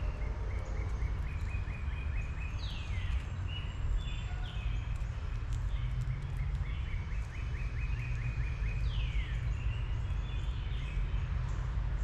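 A songbird singing twice, about six seconds apart: each phrase is a quick run of repeated high notes that ends in a single note sliding steeply down. Scattered short chirps and a steady low rumble lie under it throughout.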